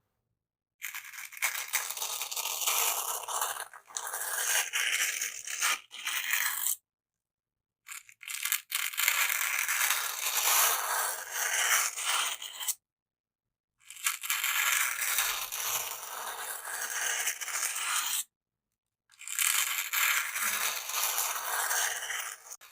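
A bamboo stick scraping and crackling, close and dense, in four stretches of a few seconds each, separated by short gaps of dead silence.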